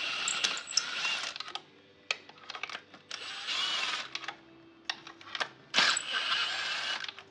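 A power tool run in short bursts of about a second each, three times, with clicks and knocks of handling between them.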